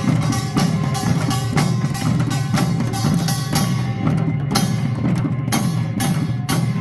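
Korean pungmul percussion band playing a fast, steady rhythm: small kkwaenggwari gongs clanging sharply over janggu and buk drums and a ringing jing gong.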